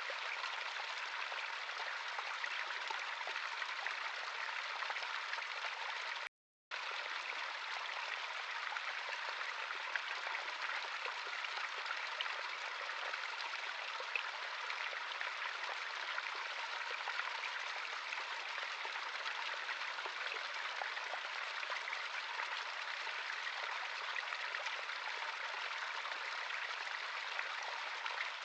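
Natural stream of running water, a steady even rush with no change in level. It cuts to silence for about half a second a little over six seconds in.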